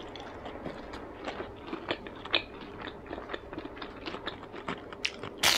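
Close-up crunchy chewing of a crispy fried Vietnamese spring roll (chả giò), with scattered small crackles throughout and a sharper crunch near the end.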